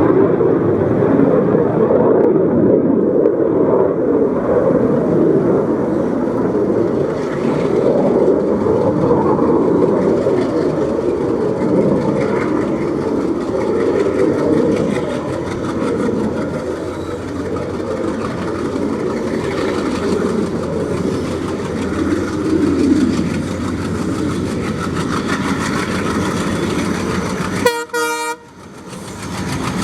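Express train hauled by twin Alco diesel locomotives running by, a steady heavy rumble of diesel engines and rolling wheels on rail. Near the end the sound breaks off briefly and comes back.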